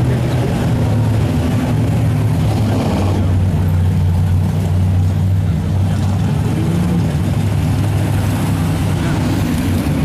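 Car engine running at low speed with a steady, deep exhaust rumble as it moves along slowly.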